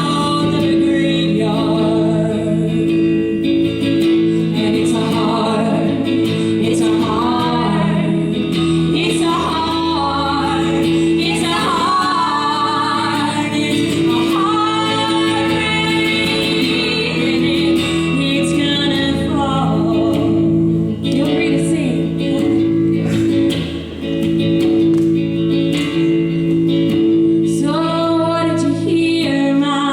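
A woman singing a folk song in phrases over a strummed guitar.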